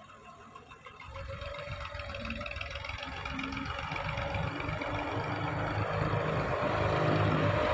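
Tractor's diesel engine running, growing steadily louder from about a second in.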